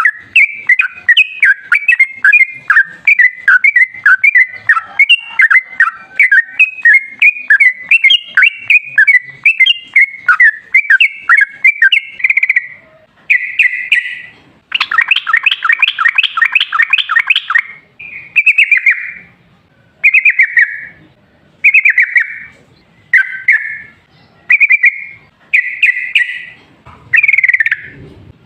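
Yellow-vented bulbul (trucukan) singing loudly: a long, fast run of bubbly chirping notes for the first half, a rapid dense trill, then short separate phrases about every second and a half.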